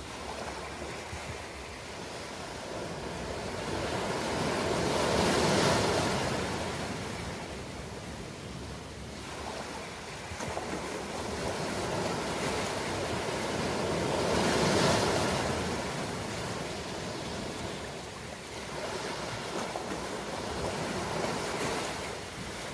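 Ocean waves breaking and washing on a shore, a steady surf hiss that swells as waves break, the two biggest about five and fifteen seconds in, with smaller ones near the end.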